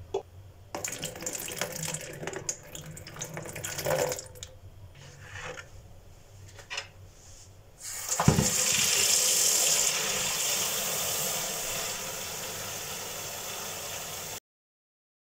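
Irregular clattering and handling noises, then about eight seconds in a steady rush of running water that cuts off suddenly near the end.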